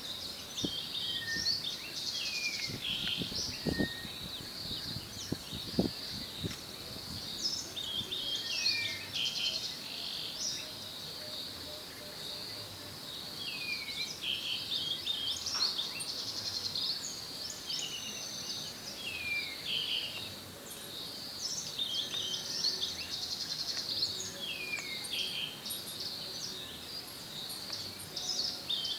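Several birds calling and singing over one another in the African bush, with many short falling and curved whistled notes. A dense, continuous high chatter sits underneath. A few soft knocks come in the first few seconds.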